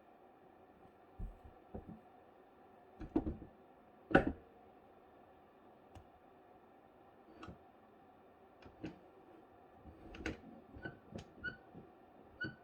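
Irregular sharp taps and knocks, and near the end three short, clear chirps from a bird.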